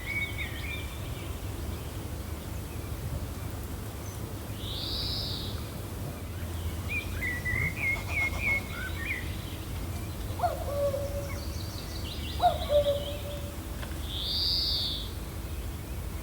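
Birds calling over a steady low wind rumble. A high arched call comes twice, about nine seconds apart, a run of quick chirps comes in the middle, and lower calls come twice near the end.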